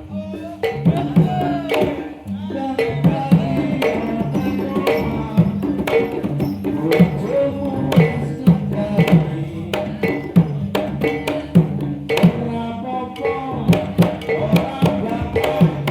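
Javanese gamelan music accompanying an ebeg (jaranan) horse dance: hand-struck kendang drum strokes over sustained, ringing pitched tones from the ensemble's struck instruments, played continuously.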